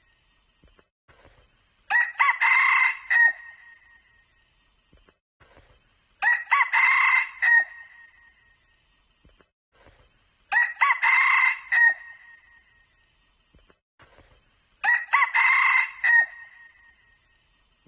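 Junglefowl rooster crowing, four near-identical crows about four seconds apart.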